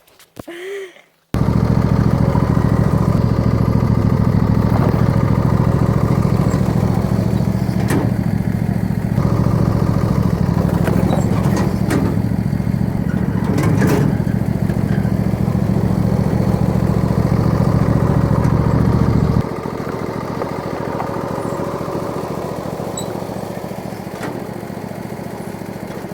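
Lawn tractor engine running steadily. It comes in suddenly about a second in, with a few sharp knocks in the middle. About two-thirds of the way through, its low drone drops away and it runs quieter.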